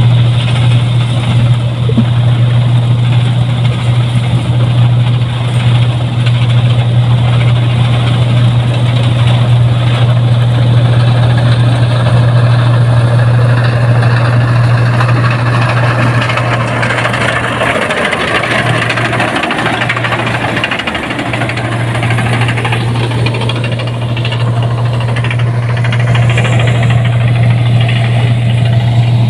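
Rice combine harvester running steadily as it cuts rice, a loud constant engine hum with machinery noise over it. The hum wavers briefly a few times a little past the middle.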